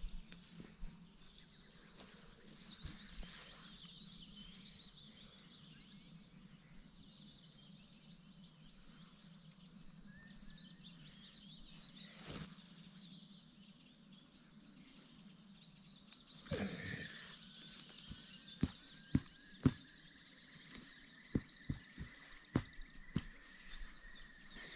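Birds singing in woodland, a high continuous twittering. In the second half comes a series of sharp knocks, the loudest sounds here.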